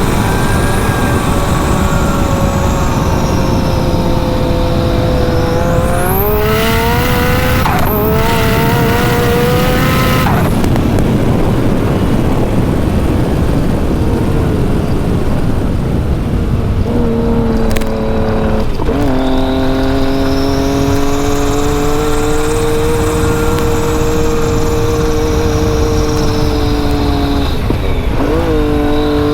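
Big-turbo Yamaha YXZ1000R's three-cylinder engine running hard under load, its pitch climbing and dropping with sudden steps at the gear changes, about a third of the way in and again past halfway. A high turbo whistle swells and fades over a heavy, constant rushing noise.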